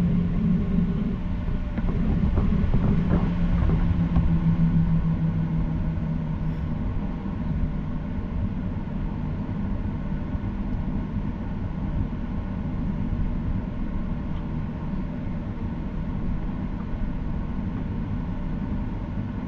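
Steady drone of a Boeing 737-800's CFM56 engines and airflow heard inside the cabin. A strong low hum eases off about six seconds in, and the overall noise drops a little.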